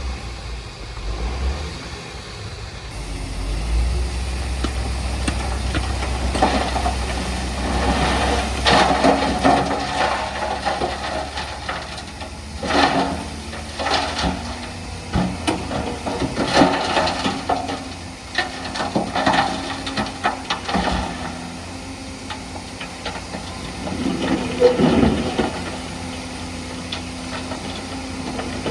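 Heavy earthmoving machinery working on a fill site: a diesel engine running under load, with a run of repeated clanks and rattles through the middle, then a steadier engine tone.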